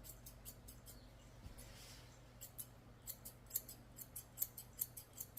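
Grooming scissors snipping a poodle's hair: a faint run of quick metallic snips, sparse at first, then coming faster and a little louder after about two and a half seconds.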